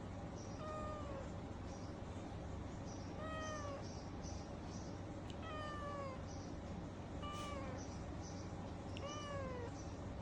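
Domestic cat meowing, five drawn-out meows each falling in pitch, about two seconds apart.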